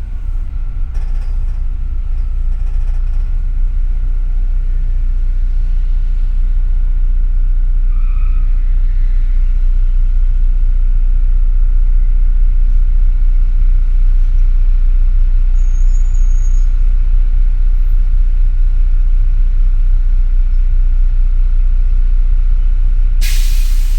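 Double-decker city bus running, heard from inside: a steady low rumble with a faint constant whine. A sudden loud hiss starts near the end.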